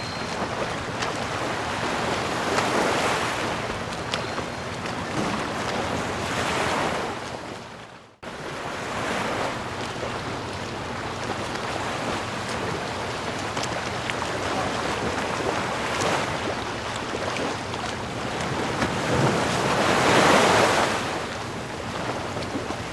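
Ocean surf: waves washing in and drawing back in a steady wash of noise, swelling louder about three, seven and twenty seconds in. About eight seconds in the sound fades nearly to nothing and then cuts back in abruptly.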